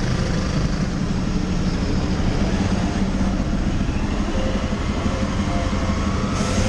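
Motorcycle riding along, its engine running steadily under heavy wind and road noise on the rider's camera microphone.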